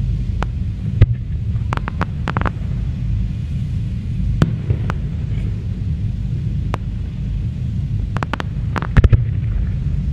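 Aerial fireworks bursting: scattered sharp bangs and cracks over a steady low rumble. There is a cluster of cracks about two seconds in, and the loudest pair comes near the end.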